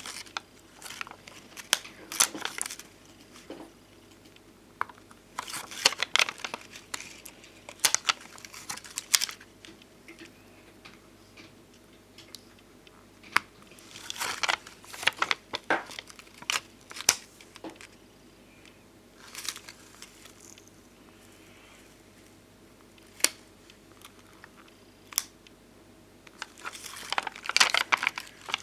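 Bonbon drop and ohajiki stickers and their plastic sticker sheets being handled: groups of crinkling, crackling sounds a second or two long, separated by pauses, with a couple of sharp single clicks in the second half.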